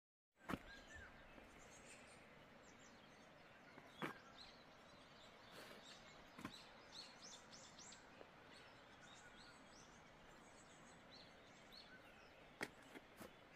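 Very quiet background with faint, high bird chirps, busiest from about five to eight seconds in, and a few sharp clicks.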